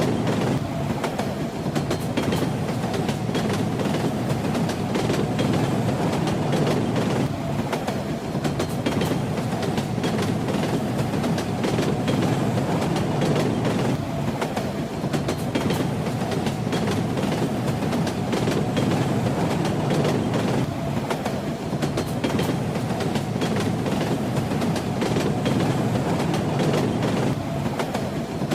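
Train running steadily: a continuous rumble with the wheels clattering over the rails throughout.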